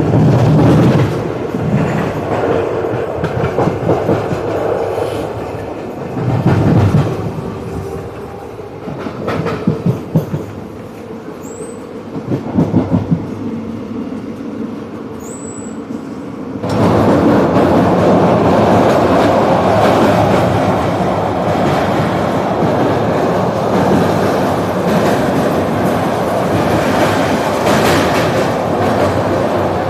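Passenger train running on the rails, its wheels knocking in clusters over rail joints above a steady rumble. A bit over halfway through, the sound jumps abruptly to a louder, even rushing noise.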